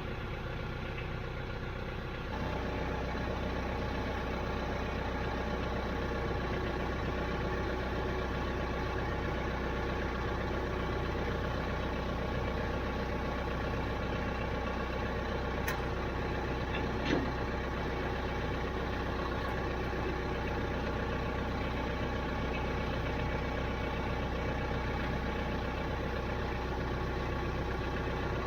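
Diesel engine of a TYM T574 tractor idling steadily. It gets a little louder about two seconds in, and there is one short knock partway through.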